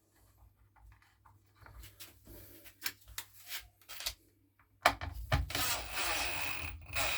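Hands working on plastic and metal strimmer parts during reassembly: scattered light clicks and knocks, then louder clatter and rubbing from about five seconds in, with a sharp click as it starts.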